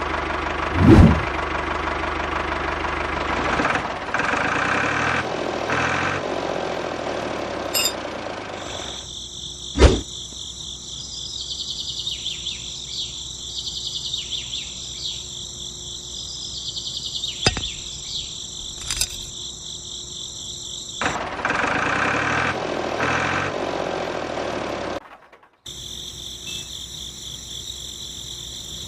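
A small motor runs with a rattling hum in two stretches, and between them crickets chirp steadily in a high continuous trill. The sound switches abruptly between the two several times, with a few sharp clicks.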